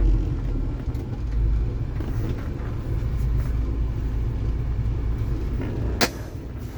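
Diesel engine of a Western Star 5700 semi truck running with a steady low rumble. A single sharp click comes about six seconds in.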